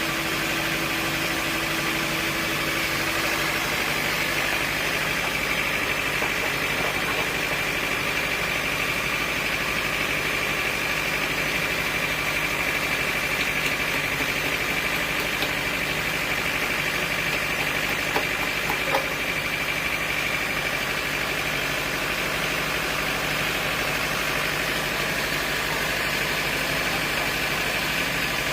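Sawmill machinery running steadily, with a high, even whine through much of the middle and a few light clicks about two-thirds of the way in.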